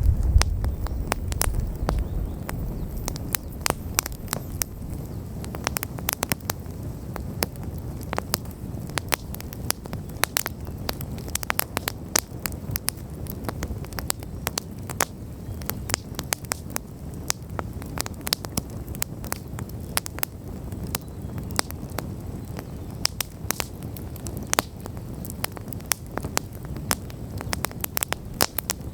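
Wood campfire burning, with frequent sharp crackles and pops over a low steady rush of flame. A louder low rumble fades away over the first couple of seconds.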